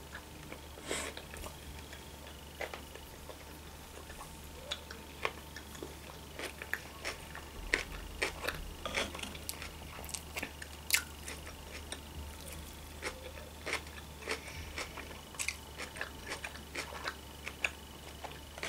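A person chewing a mouthful of sushi roll, with soft, irregular mouth clicks.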